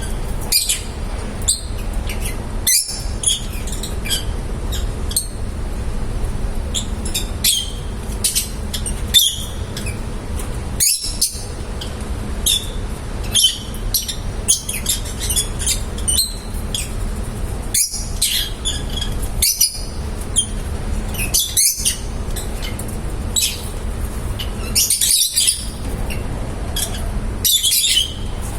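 Pet lovebirds chirping: many short, sharp, high chirps and squeaks in quick irregular succession, over a steady low background noise.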